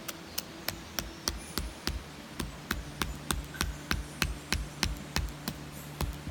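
Steady hammering: a run of about twenty sharp knocks, roughly three a second, with two short pauses.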